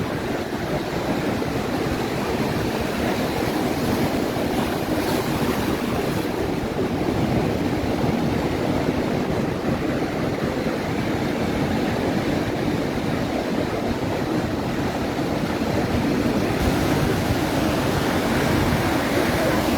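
Ocean surf breaking and washing up the beach, a steady rush, with wind rumbling on the microphone.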